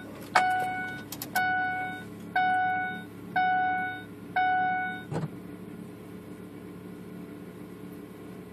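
Ford F-250's dashboard warning chime dinging five times, about once a second, with the key on before a cold start of the 6.0 Powerstroke diesel. A single click follows a little after five seconds in, over a steady low hum.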